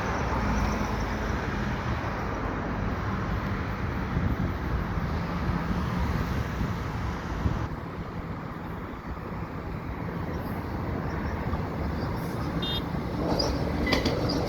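Steady road-traffic rumble with a low, even hum underneath. It eases off about halfway through and grows louder again near the end.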